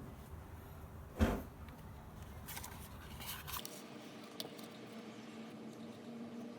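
Product box and packaging being handled: one sharp knock about a second in, then faint scraping and rustling. A faint steady hum runs underneath in the second half.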